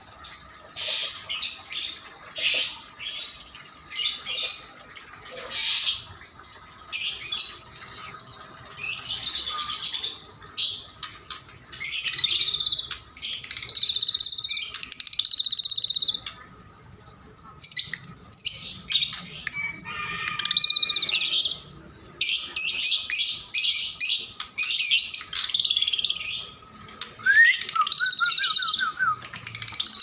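Caged birds chirping and twittering in repeated high-pitched bursts of a second or two. Near the end comes a short rising whistle, followed by a quick run of lower notes.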